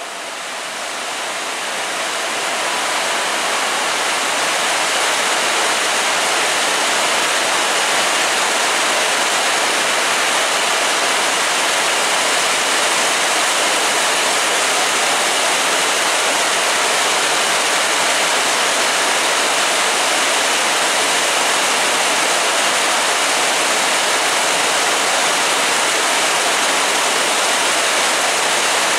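Heavy rain pouring down: a dense, steady hiss that builds over the first couple of seconds and then holds even.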